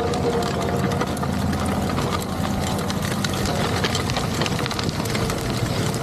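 Fendt 1050 Vario tractor's six-cylinder diesel engine running steadily while pulling a Väderstad TopDown cultivator through a field, with many small clicks and rattles over the engine.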